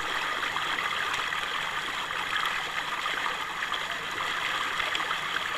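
Steady rushing of water, as water runs continuously down a water slide and into its pool.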